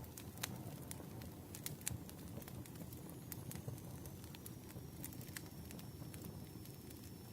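Wood fire crackling, with irregular sharp snaps and pops, two stronger ones in the first two seconds, over a steady low hiss of burning.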